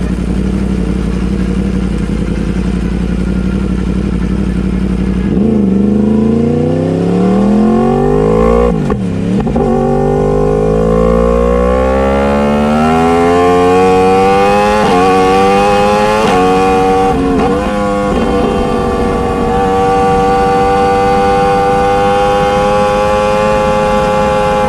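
Motorcycle engine revving under throttle. Its pitch dips sharply twice in the first half, then climbs steadily and holds high near the end.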